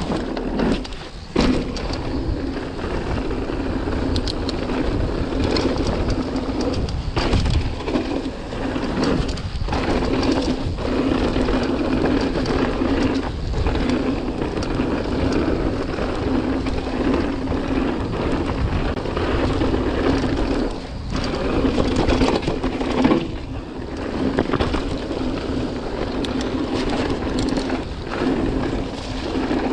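Mountain bike riding down a rough dirt trail: tyres running over the ground and the bike rattling over bumps, with wind noise on the microphone, as a continuous loud rumble broken by a few sharp knocks and brief lulls.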